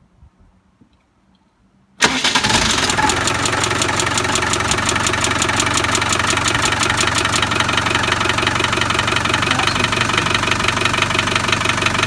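Land Rover Defender 300tdi diesel engine starting about two seconds in and settling to idle with a rapid, even clatter on start-up, sharpest in its first few seconds. The owner, whose reconditioned engine clatters at start-up until it goes away, wonders whether the oil pump is bad.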